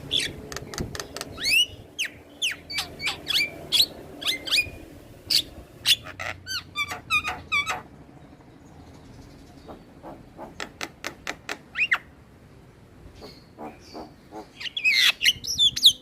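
Javan myna singing in full voice: a rapid run of sharp clicks, whistles and chattering notes. The song thins out midway and picks up again in a dense burst near the end.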